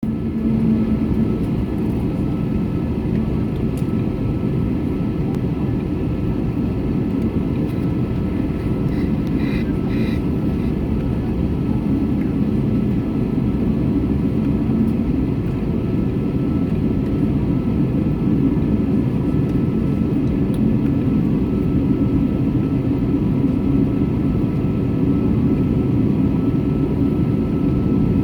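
Airbus A321neo's Pratt & Whitney PW1100G geared turbofans heard from inside the cabin: a steady low rumble with a thin whine over it, growing slightly louder in the second half. A faint brief pair of high tones sounds about ten seconds in.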